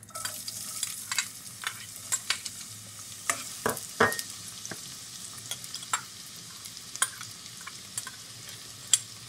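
Chopped onions and garlic sizzling in hot oil in a frying pan, with a steady hiss, while a metal spoon stirs them, clicking and scraping against the pan.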